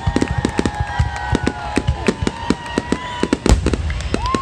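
Fireworks finale barrage: rapid sharp bangs, several a second, with steady whistling tones running over them that bend down in pitch as they end.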